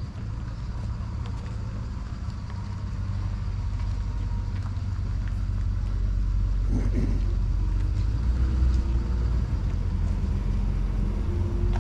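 Low, steady rumble of a vehicle engine running close by, growing louder about halfway through.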